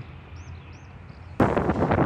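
Quiet outdoor background with a few faint high chirps, then the sound cuts in suddenly, about one and a half seconds in, to the loud running of a KiHa 187 diesel express railcar approaching: engine rumble and the clatter of wheels on rail.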